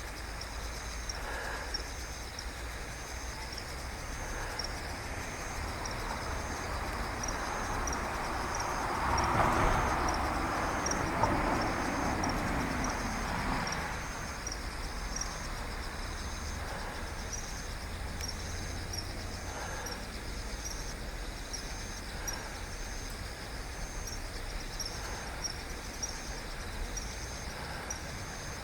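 Outdoor ambience: a high-pitched insect chirp repeating steadily about once a second over a low rumble. A passing vehicle swells and fades from about a third of the way in to about halfway.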